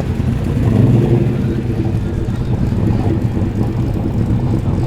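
Holden SS ute's V8 engine running at low revs as it rolls by, a deep steady rumble that swells slightly about a second in.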